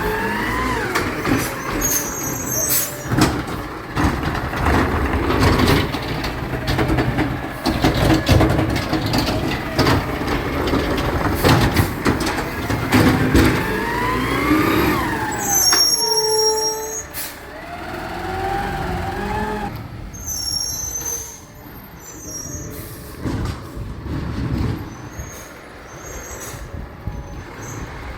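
Garbage truck at work: engine and hydraulics running with a whine that rises and falls, among repeated clanks and knocks. There are brief high-pitched hisses, and the truck gets quieter in the second half.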